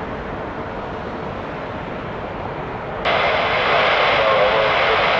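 Airbus A220-300 jet airliner taking off, its Pratt & Whitney geared turbofans giving a steady jet noise at takeoff power. About three seconds in, the noise jumps abruptly louder and brighter.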